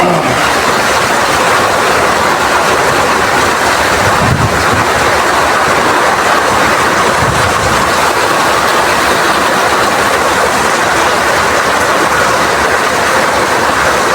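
Heavy rain falling in strong wind: a loud, steady rush with no breaks.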